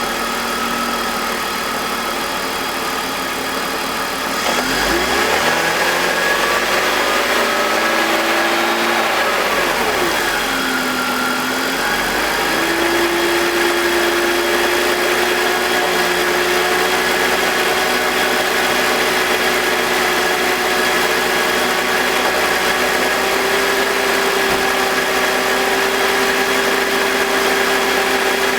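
BMW M52TU 2.5-litre inline-six idling with the VANOS connected, under test for a grinding noise from the VANOS that is barely audible here. The engine note rises about four seconds in, dips briefly near ten seconds, then holds steady at a higher pitch.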